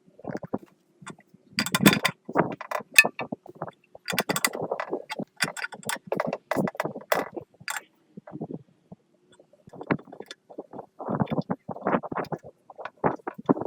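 Irregular workshop handling noise: metal parts being knocked, tapped and scraped in short clusters, with abrupt silent gaps between them.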